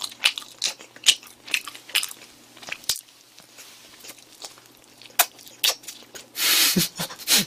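A person chewing food close to the microphone: irregular wet mouth clicks and crunches, thinning out about halfway through, then a short breathy rush near the end.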